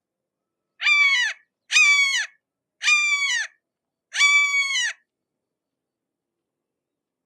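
A hawk calling four times, harsh cries spaced about a second apart, each dropping in pitch at its end.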